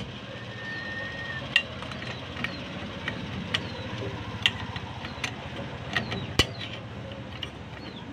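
Scattered sharp clicks and light metal knocks of hand tools working on a motorcycle's clutch assembly, the clutch nut just loosened, irregularly spaced over a low background hum.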